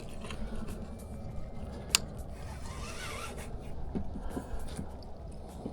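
Scraping and rustling handling noises with faint ticks and one sharp click about two seconds in, over a low steady rumble.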